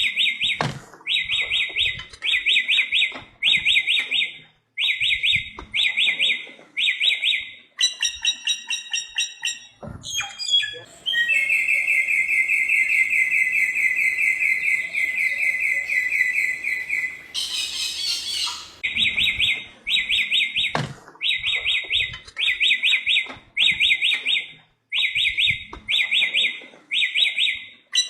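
Bare-throated whistler (samyong) singing: short phrases of two or three quick notes repeated again and again, broken in the middle by a long even trill of about six seconds and then a brief harsh rasp.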